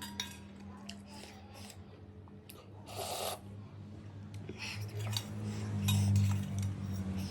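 Noodle soup being eaten from a bowl: utensils clinking against the bowl, with a brief slurp about three seconds in. A steady low hum runs underneath.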